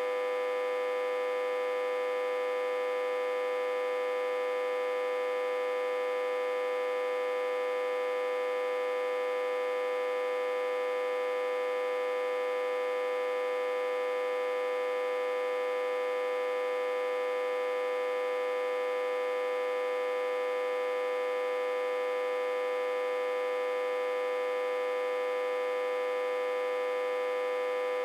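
Autotransformer, reverse-connected to a step-down transformer with about 60 to 80 V input, humming: one strong steady tone with a stack of higher overtones, unchanging throughout.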